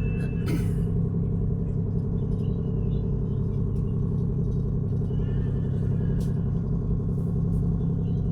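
A ship's engine runs with a steady low drone. There is a brief noise about half a second in.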